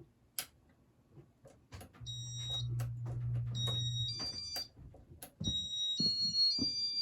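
Electronic ceiling-fan control beeping: runs of short, steady, high beep tones that step between two or three pitches, mixed with clicks of buttons being pressed. A low hum runs for about two seconds near the middle.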